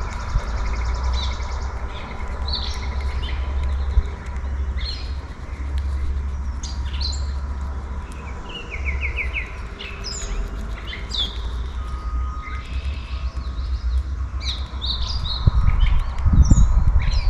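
Songbirds chirping and calling, many short high notes from several birds, with a quick run of repeated notes about halfway through. A low rumble sits underneath, growing louder near the end.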